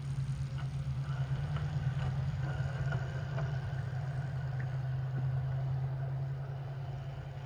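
Engine of a highrail maintenance-of-way truck running steadily as it travels along the track, with a few light clicks, fading near the end as it moves away.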